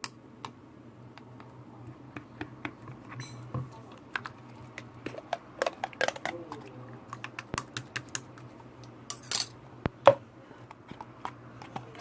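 Irregular light clicks and taps, several a second in places, over a steady low hum.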